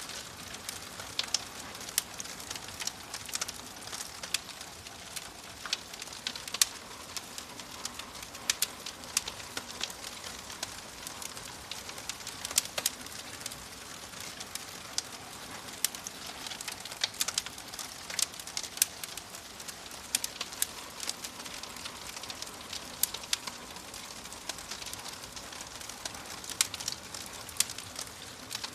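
Wood fire burning in a fireplace, crackling steadily with many sharp, irregular pops over a soft hiss.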